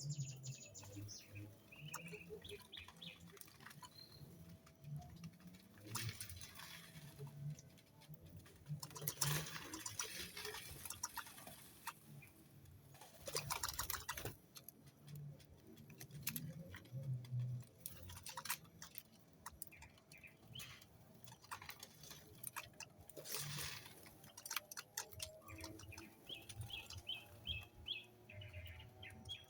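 Birds chirping with short high calls, amid scattered light taps and clicks.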